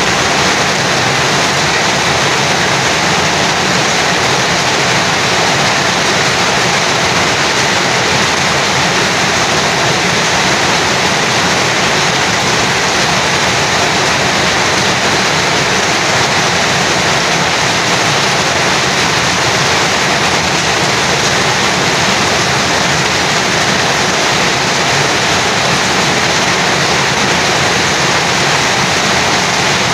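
Heavy rain falling steadily, with water streaming off a roof edge; a dense, unchanging hiss of rain.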